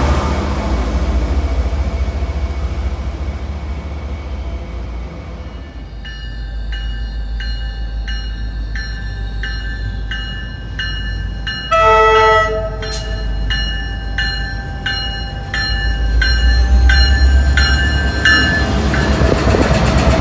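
Commuter rail cars roll past and fade away. Then an arriving MBTA F40PH-type diesel locomotive's bell rings steadily, about one and a half strokes a second, with a short horn blast about halfway through. The locomotive's rumble rises as it reaches the platform near the end.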